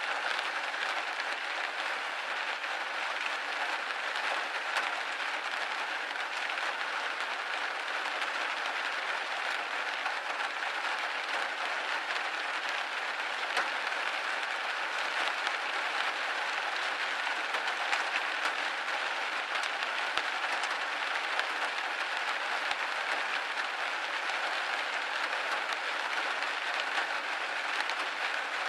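Steady rain pattering against a window pane, a dense even hiss of many small drop ticks.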